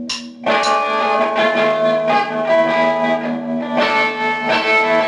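Guitar playing: ringing chords come in loud about half a second in, just after a short scratchy noise, and are struck again a little before the end.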